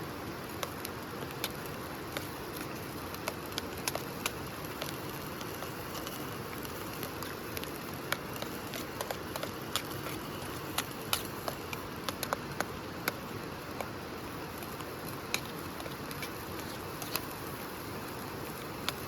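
Campfire crackling: a steady hiss with irregular sharp pops and snaps.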